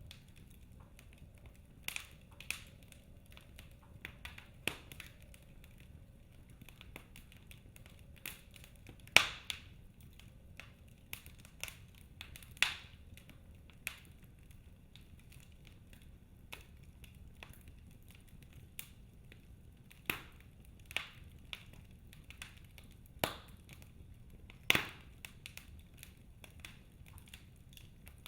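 Logs burning in a fireplace, crackling with irregular sharp pops and snaps, a few much louder than the rest, over a faint low hiss of the fire.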